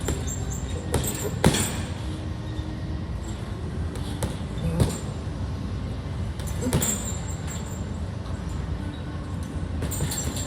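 A few irregular sharp thuds of boxing punches landing, over a steady low rumble.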